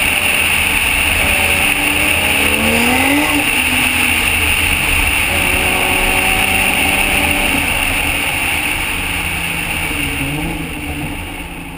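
Toyota Supra's 2JZ inline-six running at track speed under heavy wind rush over the car-mounted microphone, its note rising and falling with the throttle. The sound fades down near the end.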